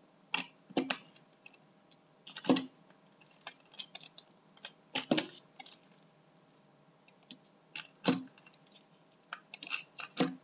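Irregular plastic clicks and knocks as marbles are handled and loaded into a B-daman toy's quick-loader magazine.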